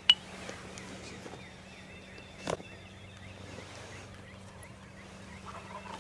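Wild turkey gobbling, with small birds chirping. A sharp click comes right at the start and a shorter knock about two and a half seconds in.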